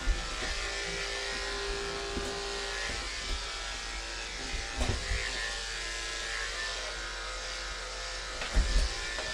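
Andis electric clippers running with a steady buzz, shaving a mat from a cat's inner hind thigh. A few short knocks come through over the buzz.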